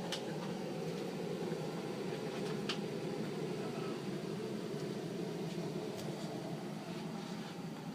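A boat's 16,000 BTU marine air conditioning unit running with a steady, even hum, with a few faint clicks on top.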